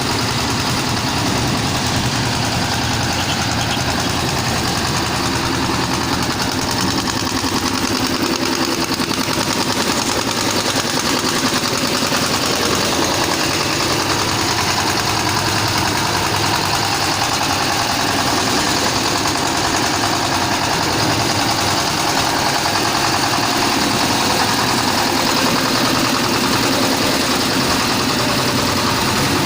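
Concrete mixer machine running with a steady engine drone.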